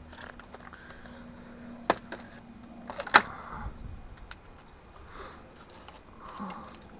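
Tools and small metal drive parts clicking and knocking on a workbench during dismantling, with two sharp clicks about two and three seconds in, the second the loudest.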